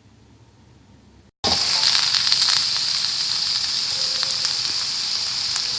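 Faint room tone, then about a second and a half in, loud sizzling of food frying in hot oil in a pan begins abruptly and carries on steadily, with small crackles.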